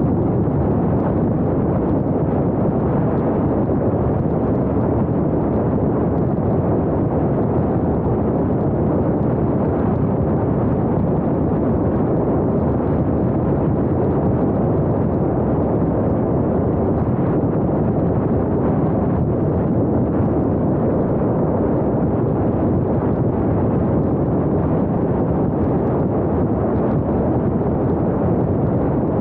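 Steady wind noise buffeting an Insta360 Go 2 action camera's microphone on a moving vehicle, over the low rumble of driving.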